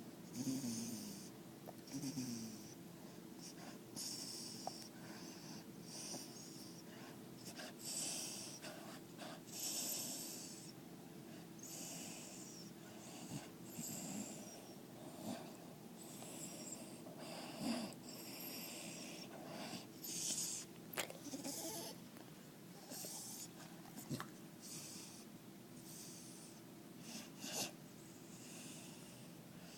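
Dog snoring and wheezing in its sleep: a hissing breath about every second. Near the start there are two low sounds that fall in pitch.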